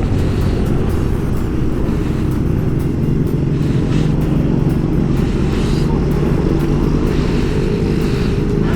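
Yamaha Aerox scooter's single-cylinder engine running at a steady cruising speed, with wind and road noise while riding.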